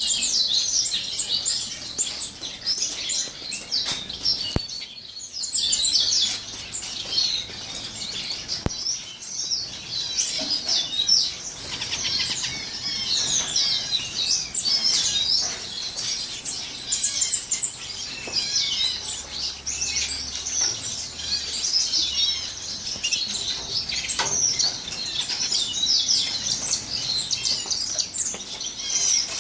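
A flock of small cage birds chirping and twittering continuously, many high calls overlapping, with a brief lull about five seconds in.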